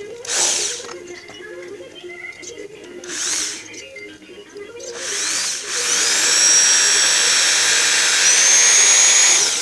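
Handheld electric power tool motor run in three short bursts, then held on for about three and a half seconds, its high whine rising as it spins up and then holding steady.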